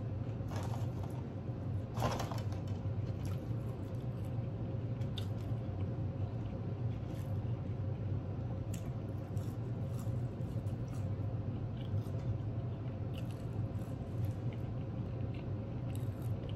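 Close-up eating sounds: a person chewing McDonald's French fries and chicken nuggets, with small mouth clicks and food-handling noises, one brief louder noise about two seconds in. A steady low hum sits underneath.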